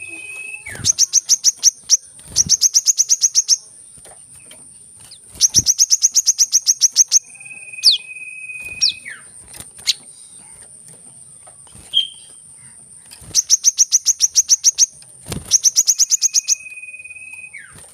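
Sunbird calls: fast chattering trills of about ten high notes a second, each run lasting one to two seconds and coming about six times, alternating with long steady whistles that drop in pitch at the end. A few short sliding notes come in between, and a constant high-pitched tone runs underneath.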